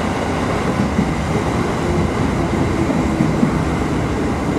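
Kotoden 1100-series electric train running along, heard from inside its front car: a steady rumble of wheels on rail and running gear as it draws up to a station platform.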